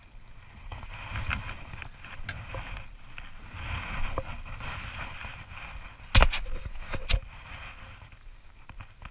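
Handling noise aboard a plastic fishing kayak as a fish is brought aboard in a landing net: a steady rustle, then two sharp knocks about a second apart around six seconds in.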